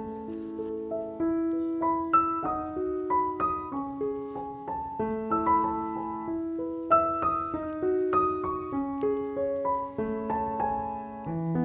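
Background piano music: a gentle melody of single struck notes over sustained lower notes.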